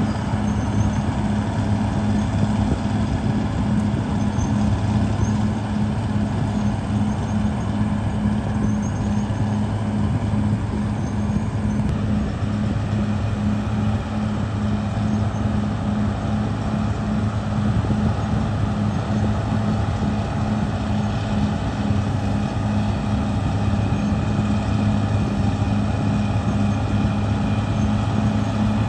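Caterpillar D6R XL bulldozer's diesel engine running steadily, a low drone with an evenly pulsing hum.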